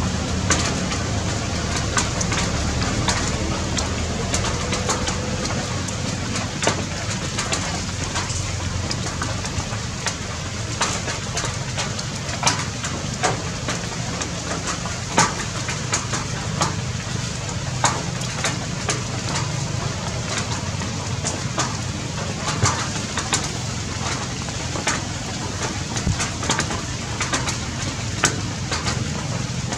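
Outdoor ambience of birds calling in the trees, many short sharp calls a few times a second, over a steady low rumble.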